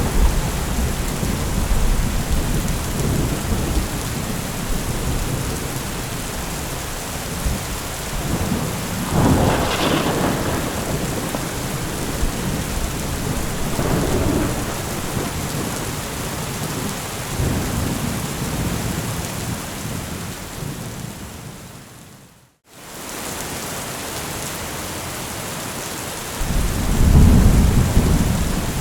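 Thunderstorm: steady heavy rain with thunder rumbling several times, the strongest peal about a third of the way in and another low rumble near the end. The sound briefly fades out and back in about two-thirds of the way through.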